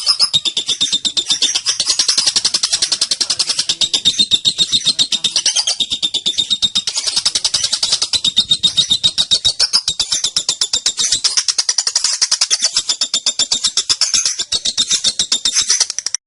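Female lovebird giving its long 'ngekek' chatter: a fast, unbroken run of shrill repeated notes.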